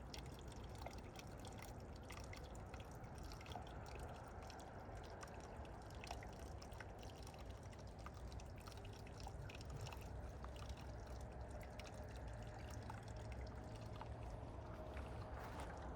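Running water trickling steadily, dotted with small drips and splashes.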